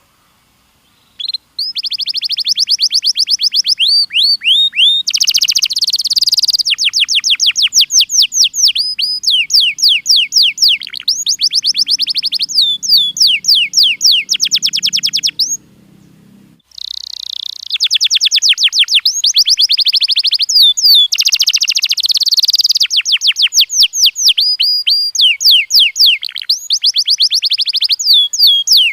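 Domestic canary singing: long runs of rapid, high repeated chirps in quick trills, pausing for about a second midway before starting again.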